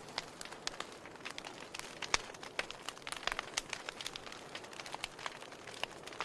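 Wood fire burning in a fireplace, crackling and popping irregularly over a soft steady hiss, with one sharper pop about two seconds in.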